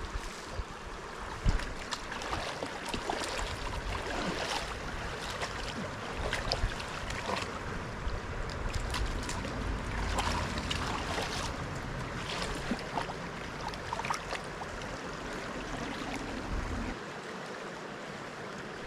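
River water flowing and splashing, with wind rumbling on the microphone until near the end.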